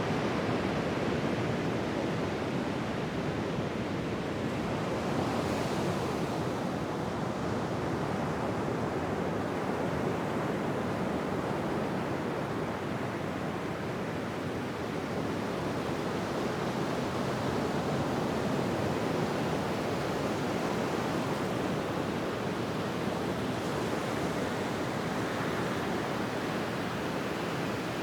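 Ocean surf breaking on a beach: a continuous wash of waves that swells and eases gently.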